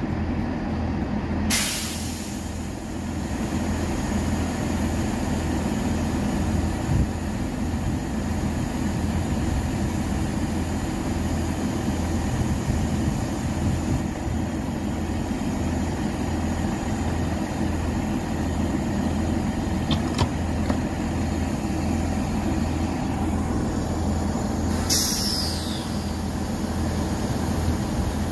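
Diesel multiple unit idling at the platform, a steady low engine hum, with a sharp air hiss about a second and a half in and another, falling in pitch, near the end.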